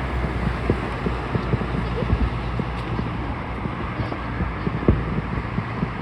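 Fireworks going off in the distance, many dull booms in quick, irregular succession, over a steady background noise with wind on the microphone.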